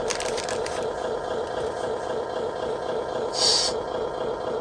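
RC truck sound module playing its V6 engine sample through a small speaker: a steady, pulsing idle note. A few clicks come in the first second, and a short burst of hiss comes about three and a half seconds in.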